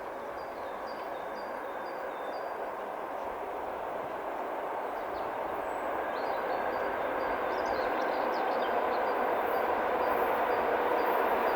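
An approaching train, its running noise on the rails growing steadily louder. Small birds chirp faintly over it.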